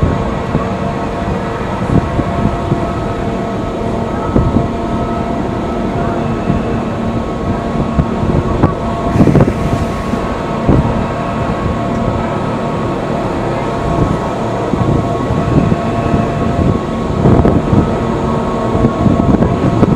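Electric train running along the track: a steady rumble with a constant whine over it, and irregular clacks and knocks from the wheels on the rails.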